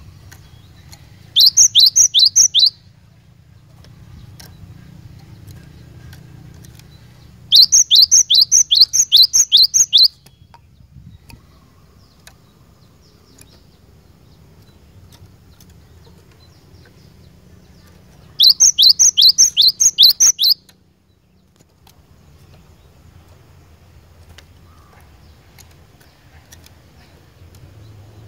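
Cinereous tit (glatik batu) singing three bursts of rapid, evenly repeated high whistled notes, each note sweeping downward. The bursts last about one and a half to two and a half seconds, with long pauses between them.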